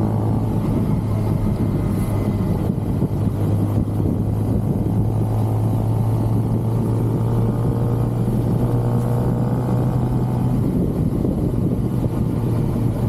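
Stock Kawasaki ZX-6R's inline-four engine and exhaust running under way at a steady cruise, holding a fairly even pitch with no gear changes or revving.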